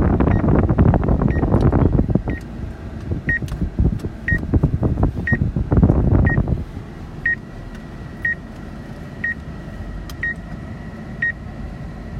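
Short electronic beep repeating about once a second, over vehicle noise that is loud for the first six or so seconds and then drops suddenly to a quieter steady hum.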